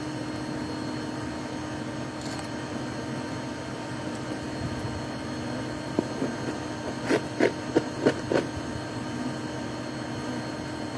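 Steady low hum with a cluster of short knocks and taps about six to eight seconds in, from honeycomb and hive wood being handled during a beehive cut-out.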